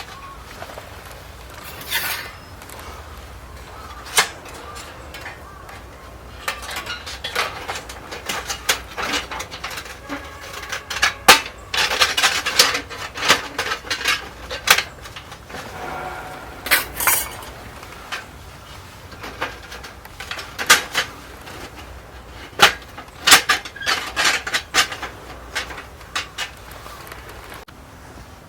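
Metal cookware and utensils being handled, with irregular clinks, taps and clatters throughout, a few of them ringing briefly.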